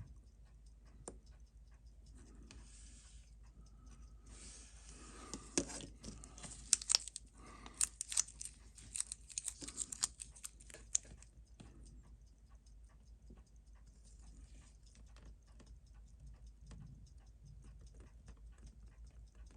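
Small sharp clicks and light scraping of watchmaker's tools and watch parts being handled on a bench, busiest and loudest between about 4 and 11 seconds in. A faint, fast, even ticking runs underneath.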